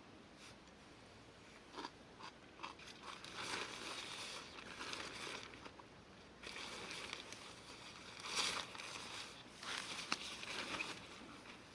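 Irregular rustling and crunching handling noises, with a few sharp clicks.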